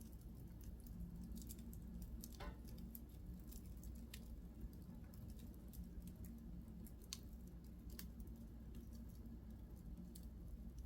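Wood fire in a fireplace crackling faintly, with scattered small snaps and pops and one fuller pop about two seconds in, over a low steady hum.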